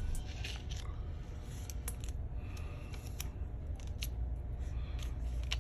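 Scattered light clicks and taps of a laptop and its replacement screen assembly being handled on a bench, over a steady low hum.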